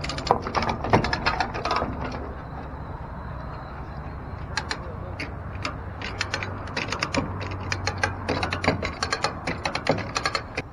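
Hand-operated come-along cable puller being ratcheted, its pawl clicking in quick runs of sharp clicks as the cable is winched in under load. A low steady hum runs beneath the clicks in the middle stretch.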